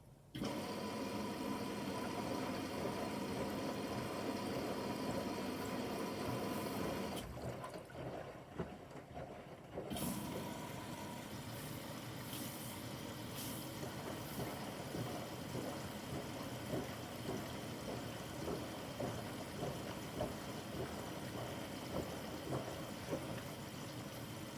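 Bosch washing machine taking in water: the fill starts suddenly with a steady rush and a faint whine, drops off for a few seconds about seven seconds in, then runs on with splashing.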